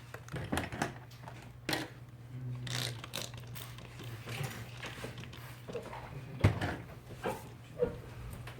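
Scattered clicks, knocks and rattles of small objects being handled and moved around on a workbench, with one sharper knock about six and a half seconds in, over a steady low hum.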